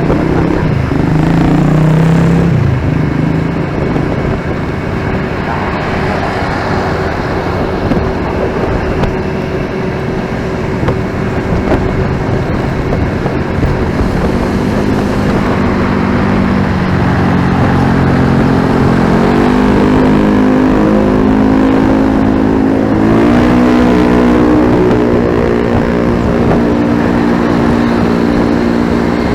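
Motorcycle engine and wind while riding in city traffic, with other vehicles passing; the engine note climbs over several seconds in the second half as it speeds up, then holds steady.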